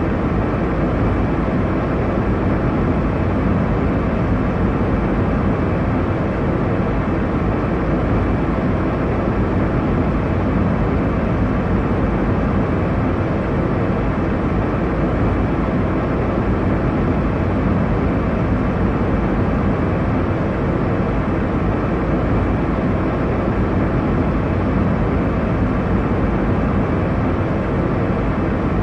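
Steady airliner cabin noise in cruise: a constant low rush of engine and airflow noise, heaviest in the low end, with no change in level.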